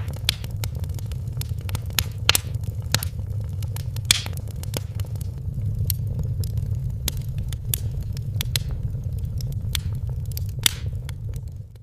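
Wood fire crackling in a fireplace: irregular sharp pops and snaps over a steady low rumble, fading out at the very end.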